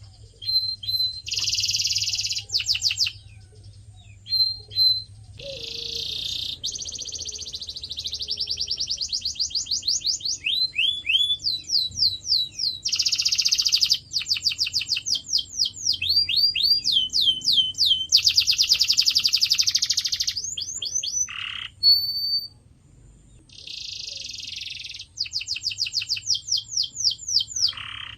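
Domestic canary singing: fast, high-pitched trills and buzzy rolls of rapidly repeated notes, some sweeping down in pitch, in phrases separated by short pauses.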